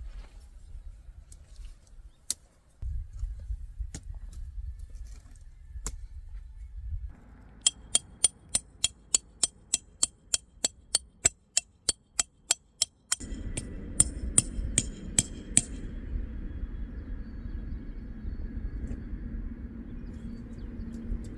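A run of sharp, evenly spaced strikes with a bright metallic ring, about three a second for five or six seconds, with scattered knocks and clicks before and after.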